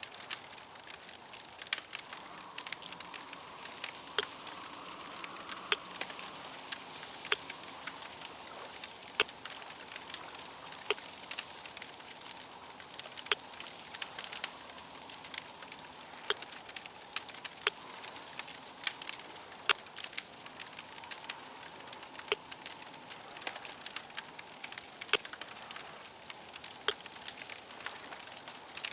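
Crackling fire: a steady hiss broken by frequent, irregular sharp pops and snaps.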